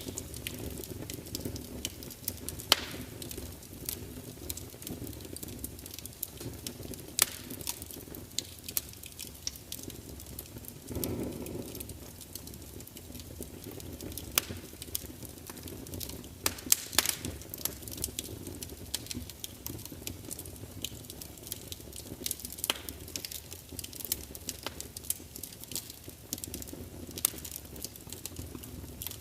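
Wood fire of burning logs in a large fireplace: a steady low rumble with frequent sharp crackles and pops, and a brief louder flare-up about eleven seconds in.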